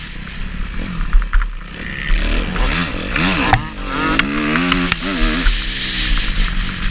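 Kawasaki KX250F's single-cylinder four-stroke motocross engine revving up and dropping back several times in quick succession, with a noisy rush over it.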